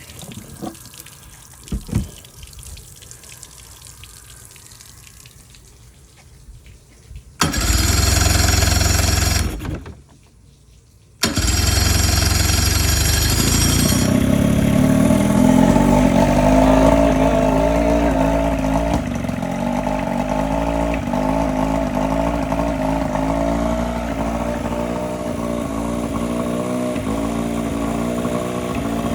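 A few clicks, then an outboard motor's electric starter cranks for about two seconds and stops. On the second try the engine catches and settles into a steady run, on its first start after a new water-pump impeller was fitted.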